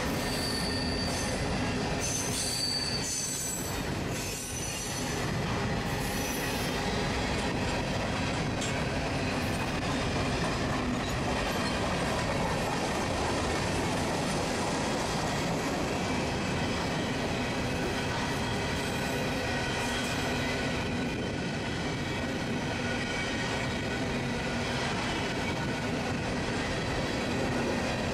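Covered hopper cars of a freight train rolling past: a steady rumble of steel wheels on rail, with high wheel squeal that is clearest in the first several seconds.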